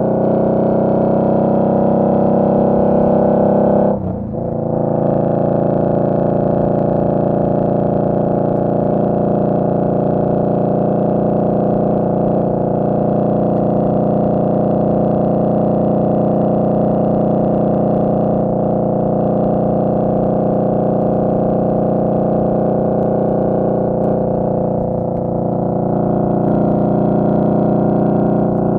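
Indian Scout Bobber's V-twin engine running under way at a steady pace, with a sharp, brief drop in pitch and level about four seconds in and a slight easing near the end.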